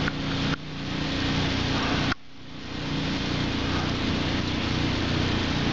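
An engine running steadily, a low hum under a constant hiss. The sound drops sharply about half a second in and again about two seconds in, each time recovering within about a second.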